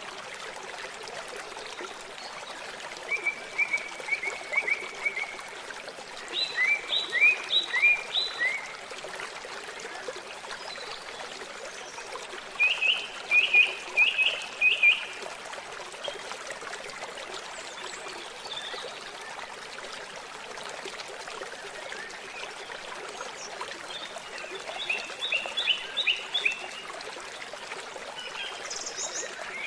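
Steady rushing of running water, with four short bursts of quick, repeated chirping calls, each series a few notes long, about 3, 7, 14 and 26 seconds in.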